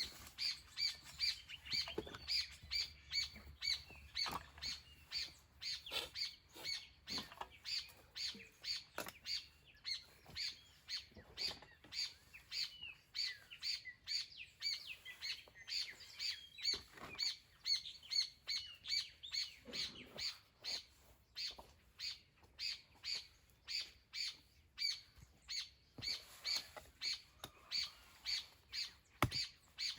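A bird calling over and over, a short high chirp repeated steadily about twice a second, with fainter chirping from other birds between.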